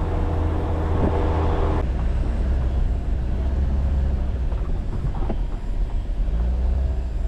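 Jeep Wrangler driving along a rural road, a steady low engine and road rumble, with a couple of light knocks.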